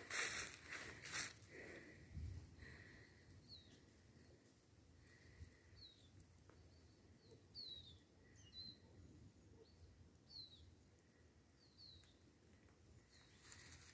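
Faint woodland birdsong: a small bird giving short, high chirps that glide downward, repeated about once a second. A few rustling crunches near the start.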